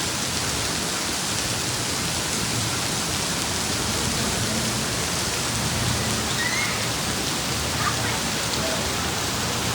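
Heavy downpour: a steady, dense hiss of hard rain.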